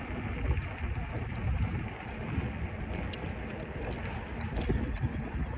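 Wind buffeting the microphone: a steady low rush that swells and dips.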